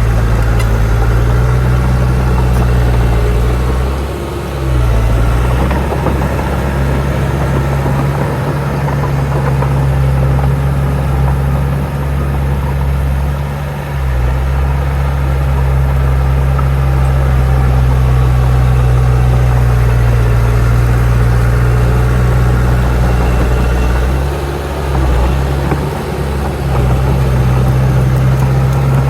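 Bulldozer's heavy diesel engine running steadily, its note dipping briefly three times.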